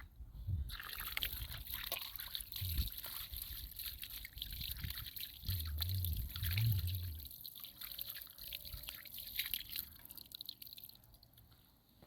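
Water trickling and splashing steadily, with a few dull low thuds, one around the middle. It trails off near the end.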